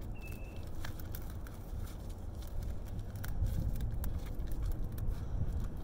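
Scrap copper wire being handled and tossed onto a pile: scattered light clicks and rustles over a steady low rumble.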